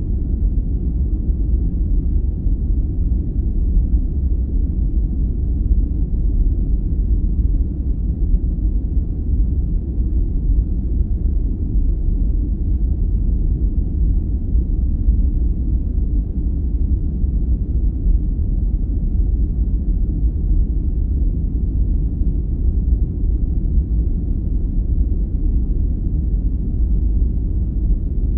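Steady, loud sleep noise: an even, deep rumble lying almost all in the bass, with no highs, no tones and no rhythm.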